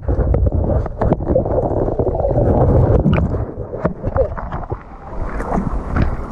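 Rushing, churning water close to the microphone, with scattered knocks and clicks through it.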